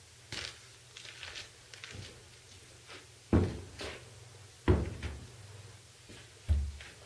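A series of knocks and thuds from objects being handled or set down: small clicks and knocks, then three heavy thuds spaced a second or two apart.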